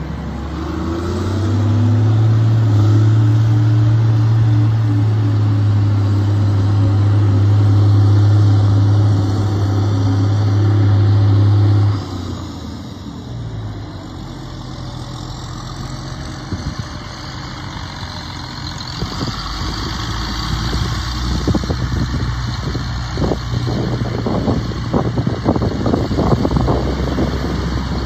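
Diesel engine of a Caterpillar Challenger 85C crawler tractor: it comes up to a higher speed with a steady low drone for about eleven seconds, then drops sharply back to a lower idle. In the second half, irregular clattering knocks sound over the running engine.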